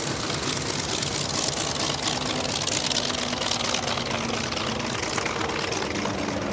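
Propeller aircraft's piston engine droning steadily over a hiss that swells in the middle, its pitch dropping slightly in the second half as it passes.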